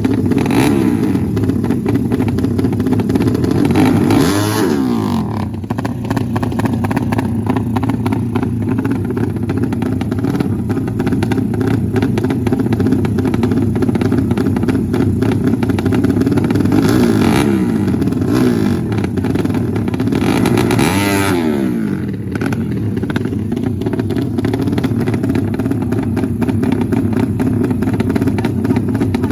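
Race motorcycle engines running loudly and revving, with a falling pitch sweep twice, around four seconds in and again around twenty-one seconds, like bikes going by.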